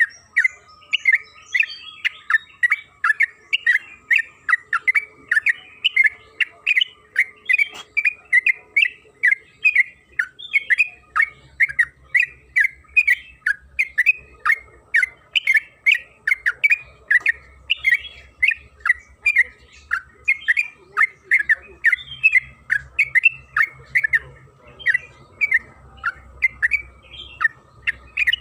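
Yellow-vented bulbul (trucukan) in full continuous song, an unbroken rapid run of short chattering notes at about two to three a second, with a faint steady hum beneath.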